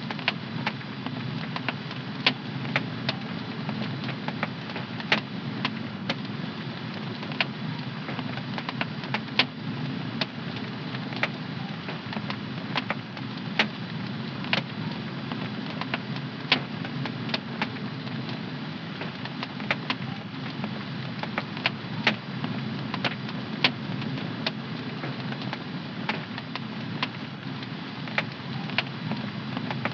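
Wood fire in a home fireplace crackling: a steady low rush of burning with sharp irregular pops and snaps, several a second.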